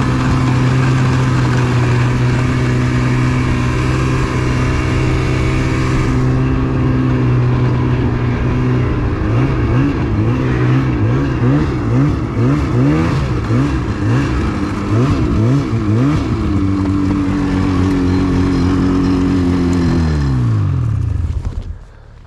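Snowmobile engine running under throttle with wind rush until about six seconds in; in the middle the revs swing rapidly up and down several times, then hold steady, and near the end the engine note falls away and stops.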